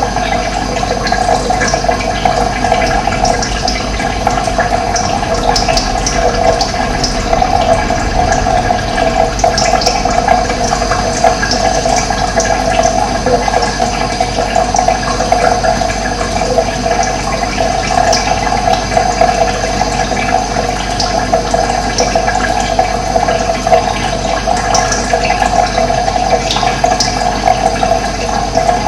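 Running water flowing steadily with an even rush, with short high bird chirps scattered through it.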